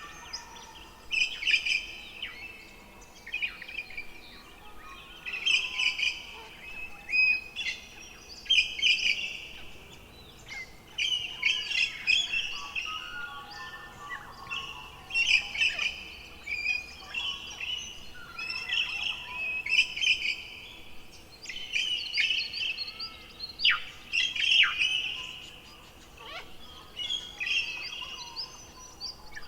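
Songbirds singing: short, high, warbling phrases repeated every second or two with brief gaps between them.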